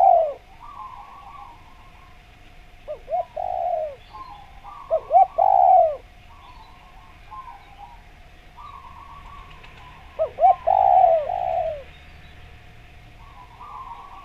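Spotted dove (derkuku) cooing: a few short clipped notes and then a longer falling coo, three phrases a few seconds apart. Fainter chirping notes fill the gaps, over a faint steady hum.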